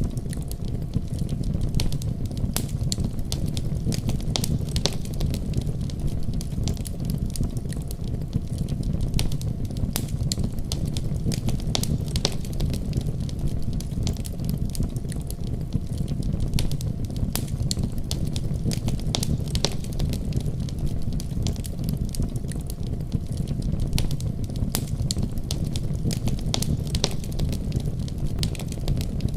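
Wood fire burning in a fireplace: a steady low roar of flames with frequent sharp crackles and pops.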